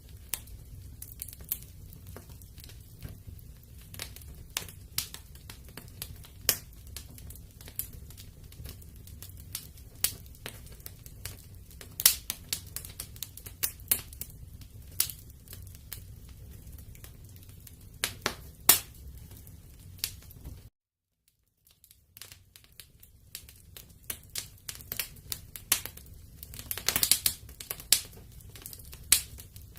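Wood fire burning in a fireplace: irregular crackles and sharp pops over a low steady rumble of the flames. The sound drops out briefly about two-thirds of the way through, then a quick run of crackles comes near the end.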